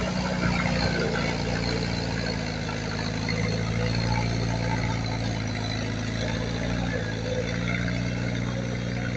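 Heavy diesel engine of earthmoving equipment running steadily at a low, even speed.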